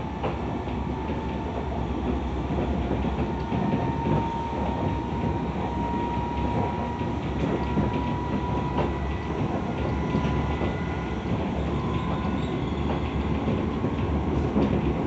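Tokyo Metro 17000 series electric train running at speed: steady rumble of wheels on track with occasional clacks, over a thin motor whine that slowly rises in pitch.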